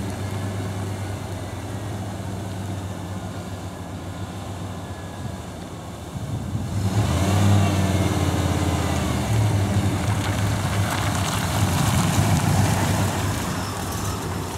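1992 Chevrolet Silverado 1500 pickup's engine running with a steady hum, growing louder and fuller about seven seconds in and staying at that higher level.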